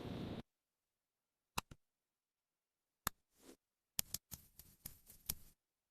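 Scattered sharp clicks and light taps at irregular intervals, with a soft brief rustle about three and a half seconds in and a quick run of clicks near the end. A steady background hiss cuts off abruptly about half a second in.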